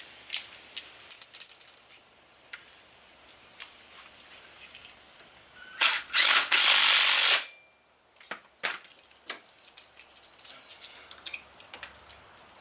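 Hand tools and small metal motorcycle parts clinking during reassembly, in scattered sharp clicks. There is a brief high ring about a second in, and a loud rasping burst lasting about a second and a half around six seconds in.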